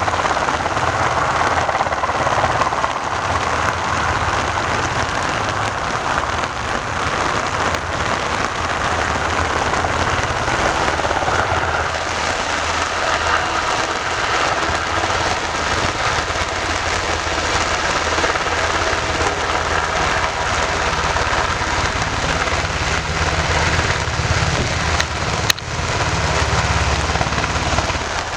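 Steady rain pattering, with the low, steady drone of a helicopter's engines and rotor running under it. A brief break with a click near the end.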